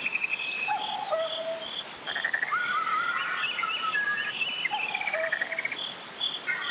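Mountain valley stream flowing with a steady rush, under many overlapping bird calls, chirps and trills.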